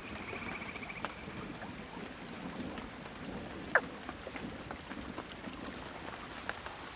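Steady hiss of running water in a night forest, with a pulsed insect-like trill that fades out in the first two seconds. About four seconds in comes one short, sharp call falling in pitch, from a night frog.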